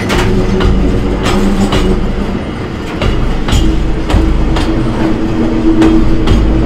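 Hoki 9500 limestone hopper wagons rolling past at close range, their wheels clacking over the rail joints about twice a second over a low, steady rumble.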